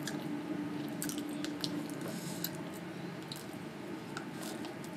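Eating latiao, the spicy gluten-strip snack, from its plastic packet: biting and chewing with scattered small clicks and crackles.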